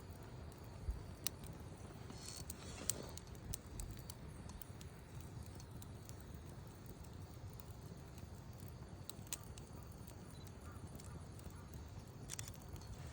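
Wood campfire burning: a low steady rumble with scattered sharp crackles and pops, the loudest snaps in the first three seconds.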